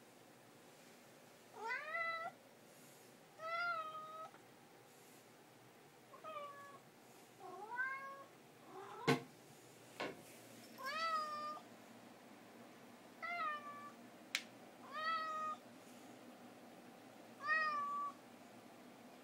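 Domestic cat meowing about eight times at irregular intervals, each call rising in pitch and then levelling off, in a way its owners hear as "hello". A few sharp clicks fall between the meows about halfway through.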